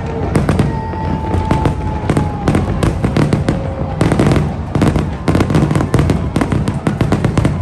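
Aerial fireworks going off in a dense, rapid series of bangs and crackles, with no pause between bursts.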